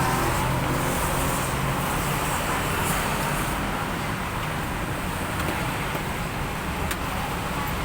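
Steady road traffic noise with a continuous rumble and hiss, and a faint click about seven seconds in.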